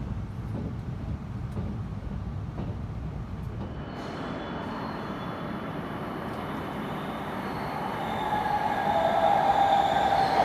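A train running on rails: a low rumble at first, then from about four seconds in a hissing rush with faint high whines, growing louder near the end as a strong steady pitched whine comes in.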